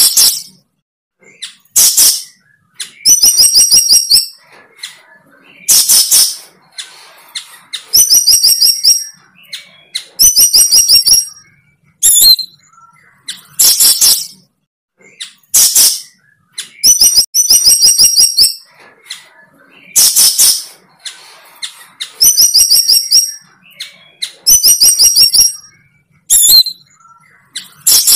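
A bird calling close by: loud, high-pitched phrases of rapid, evenly pulsed trills about a second long, alternating with short harsh chirps, repeated over and over with brief pauses between.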